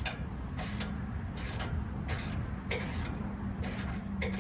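Hand ratchet wrench clicking in regular strokes, about one and a half a second, as a bumper bolt is run in, over a steady low hum.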